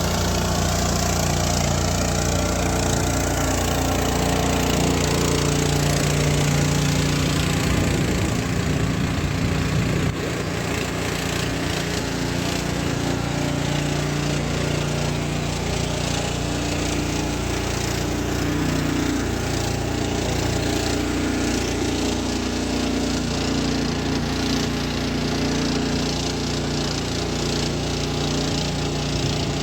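Small engine driving a pump, running steadily; the sound drops slightly about ten seconds in and then holds.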